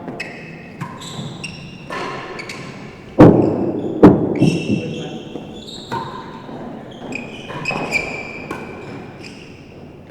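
Real tennis rally in an enclosed, echoing court: the hard ball struck by rackets and knocking off the walls and floor, with two loud echoing strikes about a second apart near the middle. Shoes squeak on the court floor between the shots.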